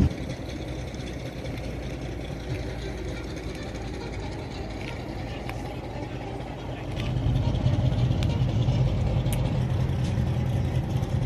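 A car engine idling with a steady low note, becoming louder about seven seconds in.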